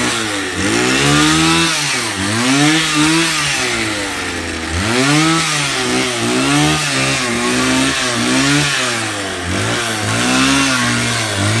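A motor repeatedly revving up and then dropping back, its pitch sweeping up and down about once every one to two seconds.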